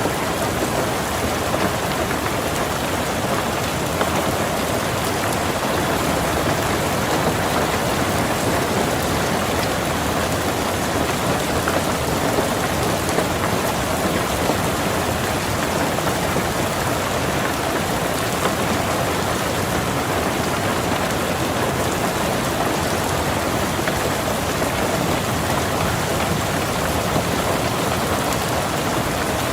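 Steady rain falling on a car, heard from inside the car: an even hiss that holds constant throughout.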